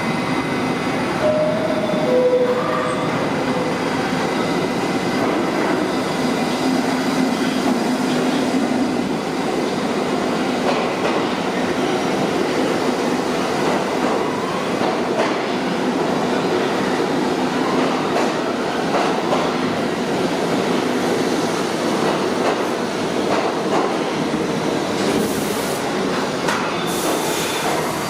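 New York City subway train moving through the station: a steady rumble and rattle of wheels on rail, with brief wheel squeals now and then.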